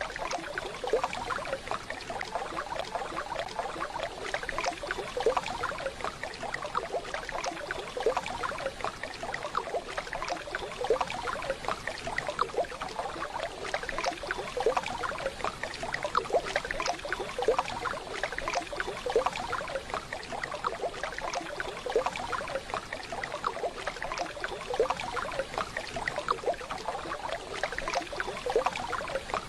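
Waterfall: a steady rush of falling water, thick with small splashes.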